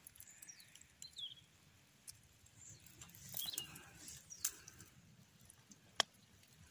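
Faint bird chirps: a few short, high calls that drop in pitch, over a quiet background, with a couple of sharp clicks, the clearest near the end.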